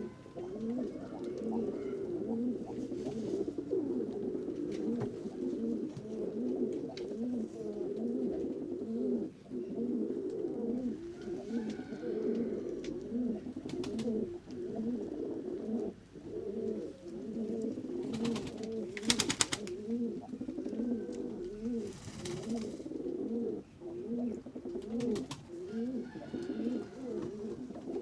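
A flock of pigeons cooing continuously, many overlapping low rolling coos. Twice, about two-thirds of the way through, there is a short burst of rapid clattering.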